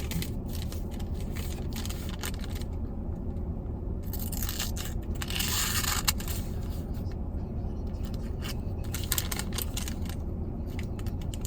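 Factory-edge drop-point blade of a Case XX Hunter Exchanger knife slicing thin receipt paper in a sharpness test: a run of short scraping and tearing rustles, busiest around the middle, with the edge cutting the paper. A steady low rumble runs underneath.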